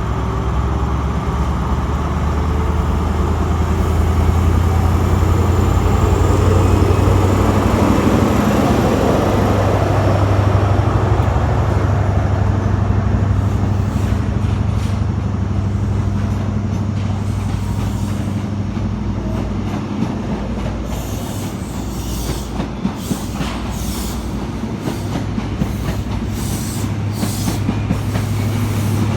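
CrossCountry HST's Class 43 diesel power cars pulling out, a steady low engine drone that builds and then eases off. In the second half the coaches' wheels click over rail joints as the train passes.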